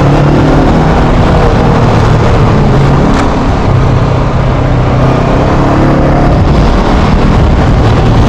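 Honda motorcycle engine running while being ridden, its pitch rising and falling with the throttle, under heavy wind rush on the microphone. A single short tick about three seconds in.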